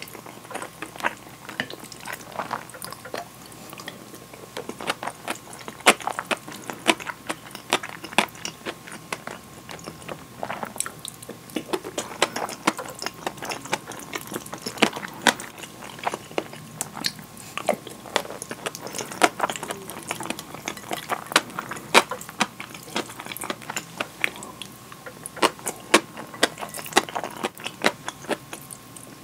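Close-miked eating of curry and rice: chewing with many sharp, irregular wet mouth clicks, and a wooden spoon scraping and tapping a bowl as it scoops.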